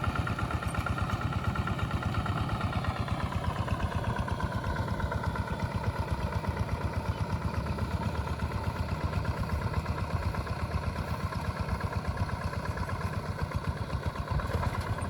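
Tractor engine running steadily with a fast, even pulsing beat; its pitch drops a little about three seconds in, then holds.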